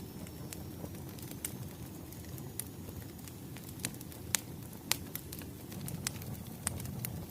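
Wood fire crackling: a steady low rumble with irregular sharp pops, the loudest a little past four and again near five seconds in.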